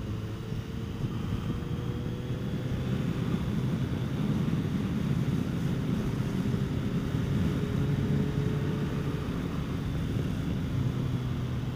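Kawasaki Concours 14's inline-four engine running steadily under way, with wind rushing over the microphone. The engine gets a little louder a few seconds in and eases off near the end.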